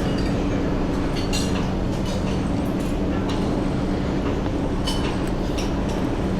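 A steady, loud mechanical hum with a constant rushing noise underneath, and light clicks and clinks scattered through it.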